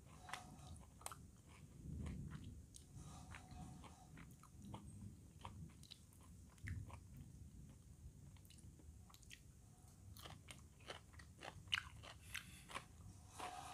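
A person biting and chewing raw carrot slices: repeated crisp crunches over soft wet mouth sounds, coming thicker near the end.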